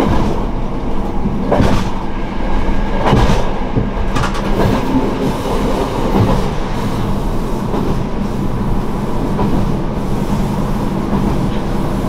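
Kyoto Tango Railway railcar running along the line, heard from inside the car: a steady running rumble and hum, with a few sharp clicks of the wheels over rail joints in the first half that settle into steadier running.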